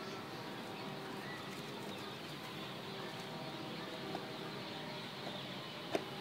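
Faint bird calls over steady background noise, with a single sharp click near the end.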